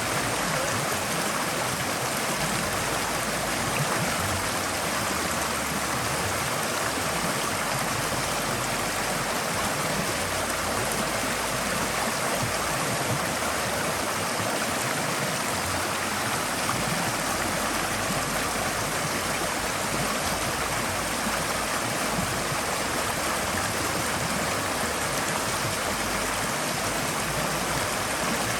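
Forest stream flowing steadily, an even rushing of water over rocks with no breaks.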